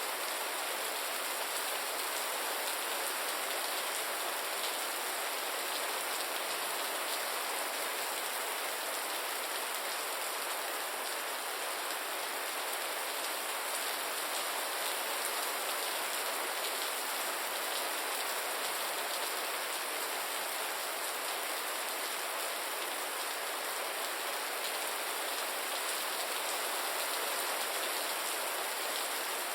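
Steady rain falling on a surface, an even hiss with fine drop patter and no change in intensity.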